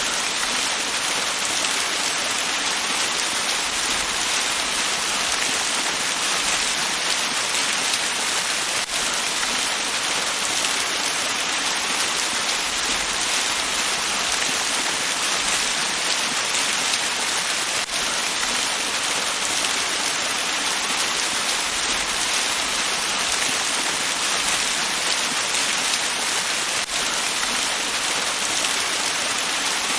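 Waterfall: a steady, bright hiss of falling and splashing water with little low rumble, unchanging throughout.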